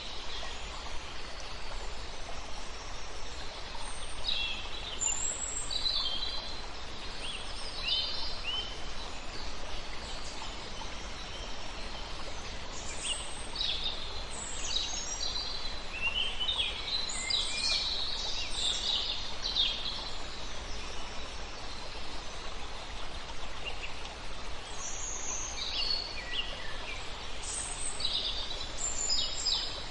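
Several songbirds chirping and trilling in short high phrases, busiest around the middle and again near the end, over a steady rush of flowing river water.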